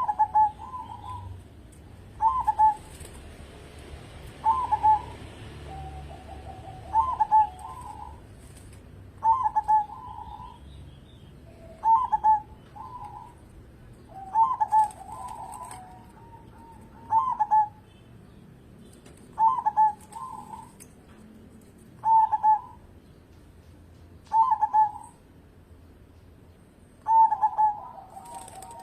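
Zebra dove (perkutut) cooing its song: a dozen short, bubbling coo phrases repeated about every two and a half seconds, several opening with a low rolling trill.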